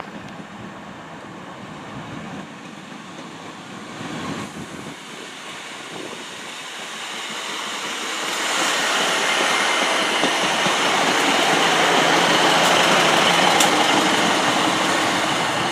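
Class 153 diesel railcar coming into the platform, its engine and wheels growing louder about halfway through and staying loud, with a few sharp clicks near the end.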